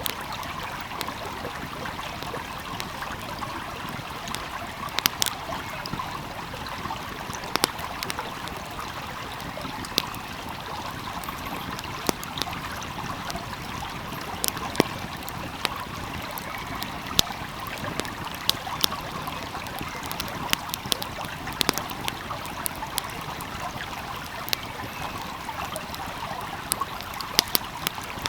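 Stream flowing steadily, with a fire crackling over it in sharp, irregular pops.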